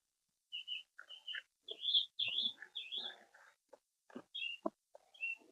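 Songbirds chirping: a run of short, high, irregular chirps, busiest about two to three seconds in.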